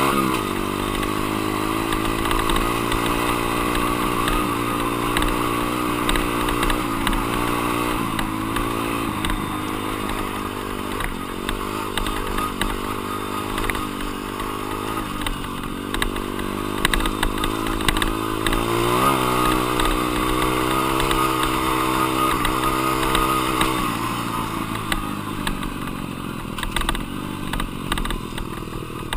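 Dirt bike engine revving up and down as the throttle is worked, with a sharp rise in revs about two-thirds through. Near the end it drops to a lower, quieter note as the throttle closes.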